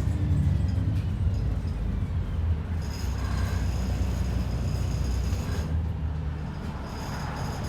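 Interior sound of an ADL Enviro 400 double-decker bus under way: a steady low rumble from the engine and drivetrain, with faint thin high whines joining from about three seconds in.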